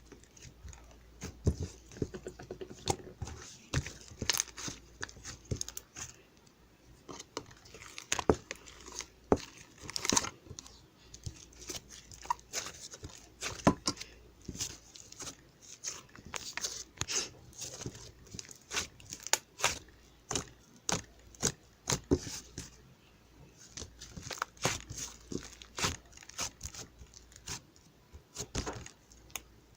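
Irregular crinkling, tearing and crunching: sharp crackles come a few times a second, some much louder than the rest.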